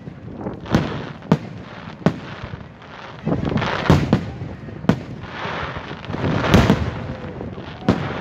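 Aerial firework shells bursting overhead: about seven sharp bangs, irregularly spaced, with crackling between them.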